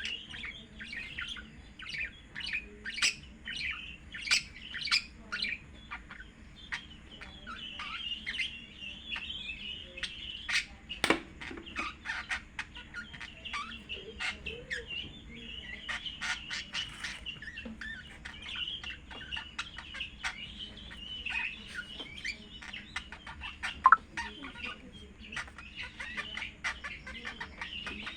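Birds chirping and squawking in a steady stream of short, overlapping calls, with a couple of sharp clicks along the way.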